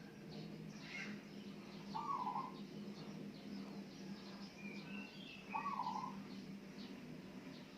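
A bird giving a short call twice, about three and a half seconds apart, with fainter chirping from other birds and a steady low hum underneath.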